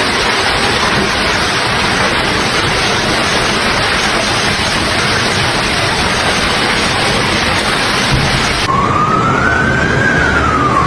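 Heavy rain pouring down in a dense, steady hiss that stops abruptly near the end. An emergency-vehicle siren wail follows, rising slowly and then falling.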